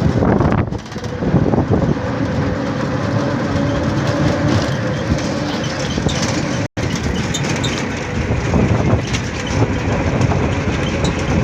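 Steady rumbling noise of a moving vehicle, with a brief dropout a little past halfway.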